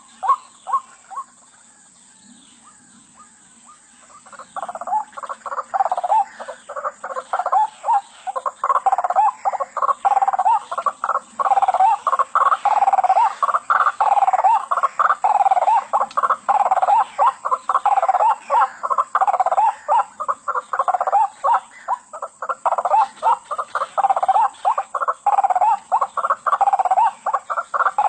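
White-breasted waterhen calling: a loud, rapid run of repeated harsh "wak-wak" notes, several a second. The calls stop briefly after the first second and start again about four seconds in, then go on almost without a break.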